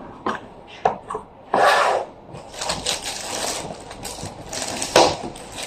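Handling noise from a power drill and its parts being moved about on a hard surface: scattered clicks and knocks with short bursts of scraping, the loudest about one and a half seconds in and a sharp knock near the end. The drill is not running.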